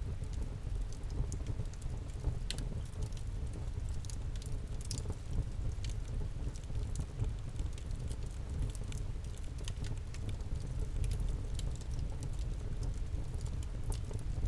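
Campfire crackling: frequent small sharp pops at irregular intervals over a low steady rumble.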